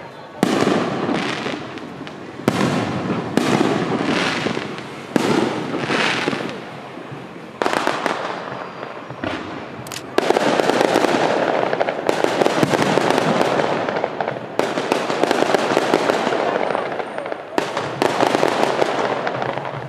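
Aerial firework shells bursting one after another, each a sudden bang that dies away over a second or two. About halfway through the bursts come thick and fast, merging into continuous dense crackling and popping.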